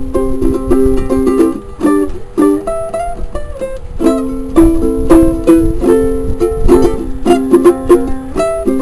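Solo ukulele played instrumentally: rhythmic chord strums mixed with single picked melody notes.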